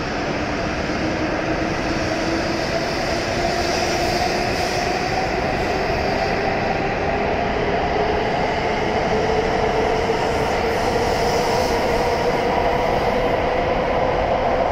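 W7 series Shinkansen accelerating away from the platform, its traction motors whining in a slowly rising pitch as it gathers speed, over the steady rumble of the cars rolling past.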